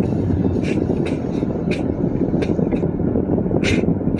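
Steady low rumble of a car's cabin while driving through a snowstorm, with the engine, tyres and wind mixed together. Irregular short sharp ticks sound over it, about seven in the few seconds.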